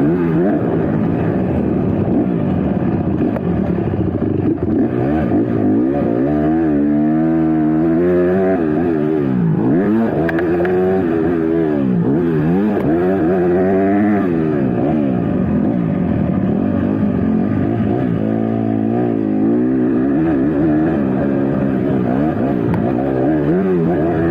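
Motocross dirt bike engines revving hard, their pitch repeatedly climbing and dropping every second or two as the riders open and close the throttle around the track.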